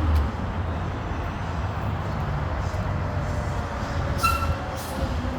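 A vehicle engine running steadily with a low rumble, with a short high-pitched squeal about four seconds in.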